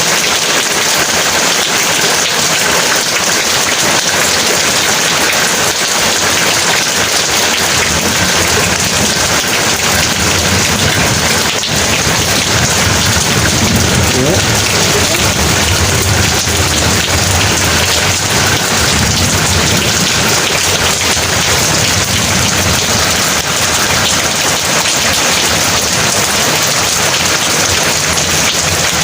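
Heavy rain pouring steadily, with a long low rumble of thunder building from about eight seconds in and fading by about twenty seconds.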